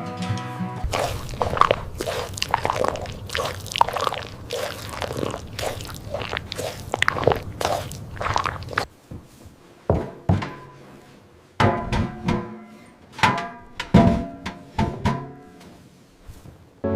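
A run of irregular knocks and crunches, coming thick and fast for the first half, then fewer and spaced out with short quiet gaps between them.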